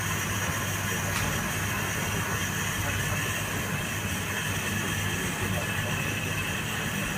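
A steady machine hum with an even rushing noise, unchanging throughout, with a faint tick about a second in.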